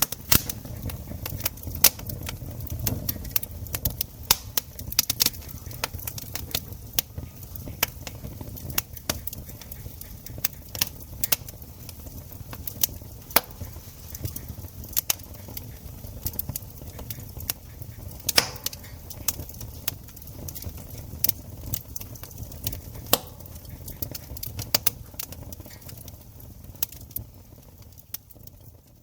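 Wood campfire crackling: irregular sharp snaps and pops, several a second, over a low steady rumble.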